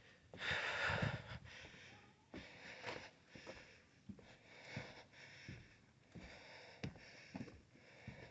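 A person breathing hard and sniffing, winded from a steep uphill hike, with scattered snaps and crunches of footsteps on sticks and leaves.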